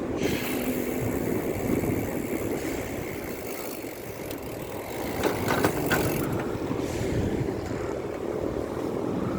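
Wind rushing over the microphone with steady road and traffic noise while riding a bicycle, with a few brief rattles about five to six seconds in.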